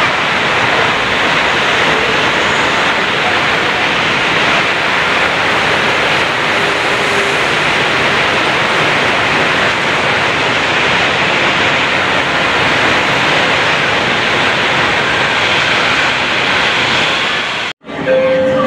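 Steady loud rushing noise on an elevated LRT platform as an electric LRT train pulls in; the sound cuts off abruptly near the end.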